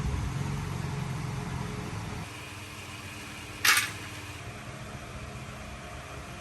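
A motor running with a low hum that stops about two seconds in, then one short, loud hiss a little past halfway.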